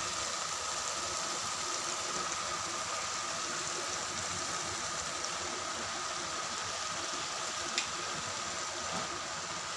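Onion-tomato masala sizzling steadily in a pan under freshly added fenugreek leaves, with one faint tap near the end.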